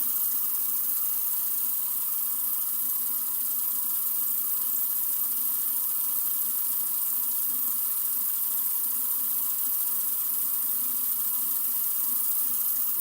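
Sink faucet running steadily into the basin: an even, unbroken hiss of water.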